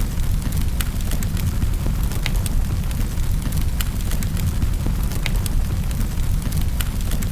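Wood fire crackling in a fireplace: sharp, irregular pops about one or two a second over a steady low rumble.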